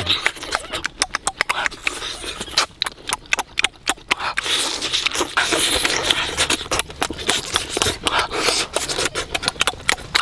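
Close-up eating sounds: lip smacking and wet chewing of cooked turtle eggs, a quick run of sharp wet clicks that thins out in the second half.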